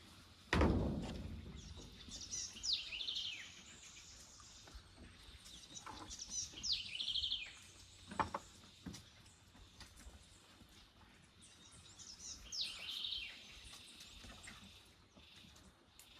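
A songbird repeating the same short phrase three times, a few seconds apart: a quick falling sweep that breaks into a fast trill. A loud thump about half a second in and a sharper knock about eight seconds in.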